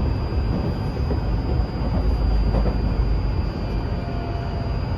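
Tokyu 2020 series electric train running, heard from inside the car: a steady low rumble of wheels on rails and running gear, with a thin, steady high-pitched tone over it.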